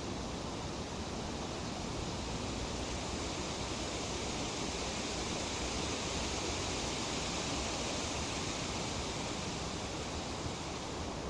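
Tree leaves rustling in a light breeze: a steady, even hiss that swells slightly in the middle and eases again near the end.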